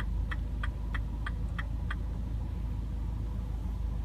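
Turn-signal indicator ticking steadily, about three ticks a second, and stopping about two seconds in. Under it is the steady low hum of the engine idling, heard from inside the cabin.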